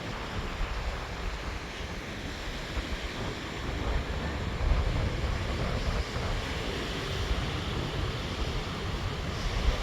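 Strong gusty wind buffeting the microphone, over the steady wash of rough sea surf breaking on the shore.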